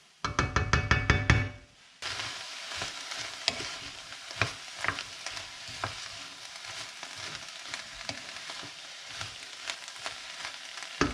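Diced peppers, onions and garlic sizzling in olive oil in a Dutch oven on high heat while being stirred, with sharp clicks of the utensil against the pot. A louder, rapid stretch of stirring for the first couple of seconds, then a steady sizzle.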